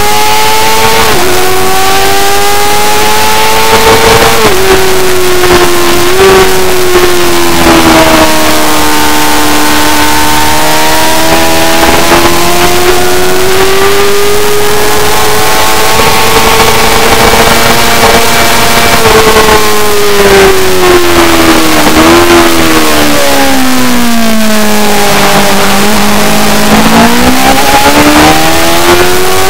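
Superbike engine at racing speed on track, heard continuously: its note climbs and falls with the throttle and jumps briefly at several gear changes, sinking lowest about 25 seconds in before climbing again, under a steady rush of noise.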